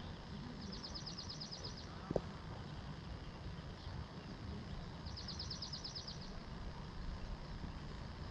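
A small bird singing a rapid trill of about ten high notes, twice, about four seconds apart, over a low steady rumble of wind and outdoor background. A single sharp click about two seconds in.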